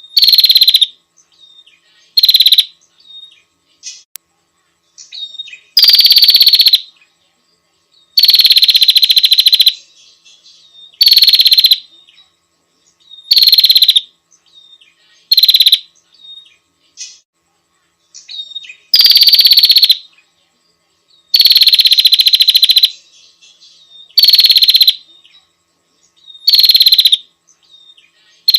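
Small prinia-type songbird giving loud, harsh, buzzy scolding calls, about eleven of them, each half a second to over a second long and repeated every two to three seconds, with faint short chirps in between.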